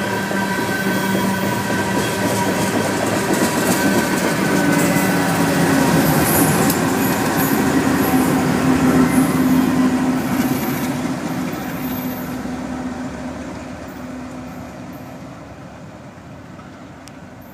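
Loaded coal train rolling by, with wheels on rail and the steady hum of its two rear GE diesel locomotives, a C44-9W and an ES44AC. The sound builds as the locomotives pass about eight to ten seconds in, then fades away as the train leaves.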